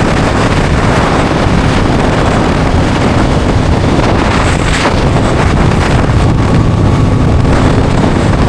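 Heavy wind rushing over the microphone of a motorcycle at steady speed, with the Aprilia Tuono 660's engine droning steadily beneath it.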